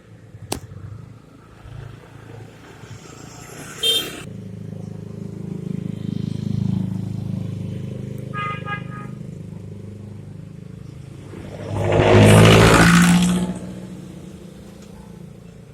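Wet-street traffic. Engines pass, with two short horn toots about 4 and 8.5 seconds in. The loudest moment is a vehicle rushing past close by near the end, with its tyres hissing on the wet road.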